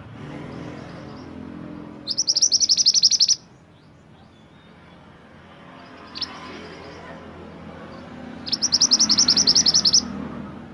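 Mantenan gunung songbird singing two loud, rapid, high trills, the first about two seconds in and the second about six seconds later, with a short sharp note between them.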